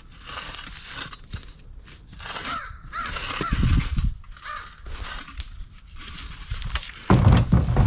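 A few harsh cawing calls about halfway through, among irregular rustling and crunching. There is a heavy low bump near the end.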